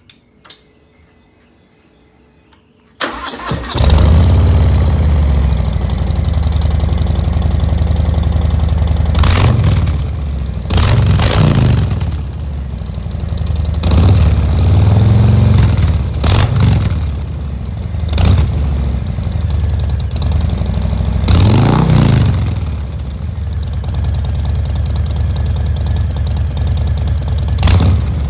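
Harley-Davidson 2018 Softail Deluxe V-twin through newly fitted Cobra Neighbor Hater slip-on mufflers: after a faint whine, the starter cranks about three seconds in and the engine fires, then idles loud and deep with about eight quick throttle blips.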